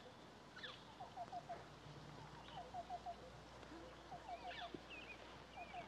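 Faint birdsong: a repeated run of four quick, low, downward-slurred notes about once a second, with thinner, higher chirps over it.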